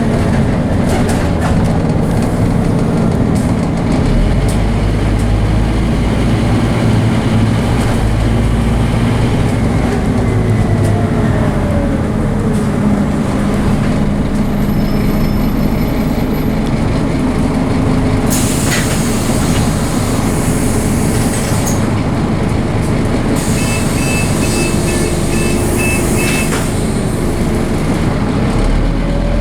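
Scania DC9 five-cylinder diesel of a Scania OmniCity double-decker bus working hard under load, its pitch rising as it gathers speed and shifting as the ZF automatic gearbox changes gear. Two long spells of hiss come in the second half.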